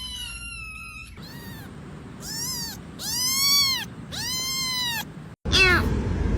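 A cat meowing over and over: a long drawn-out meow, then four shorter meows that rise and fall in pitch. Near the end a sudden break is followed by a louder call that falls in pitch.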